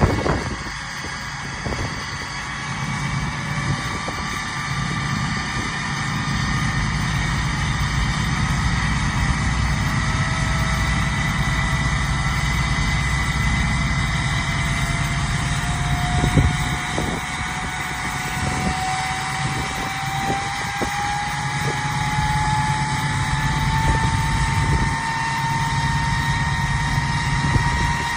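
Straight-piped 6.7 Cummins diesel idling just after a cold start, a steady low rumble with a turbo whistle over it that climbs slowly in pitch throughout. A few short knocks come through in the middle.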